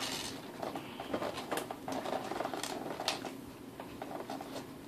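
Packaging being handled while a box is searched: scattered light crinkles and clicks from plastic and cardboard as contents are moved about.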